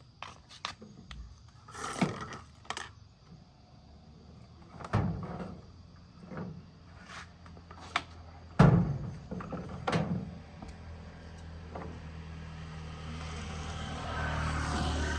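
Scattered knocks and clicks of objects being handled, with a heavy thump about two-thirds of the way through. A low steady hum sets in after that and grows louder near the end.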